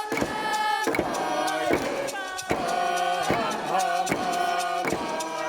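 Several voices chanting long held notes over a steady struck beat, about two beats a second.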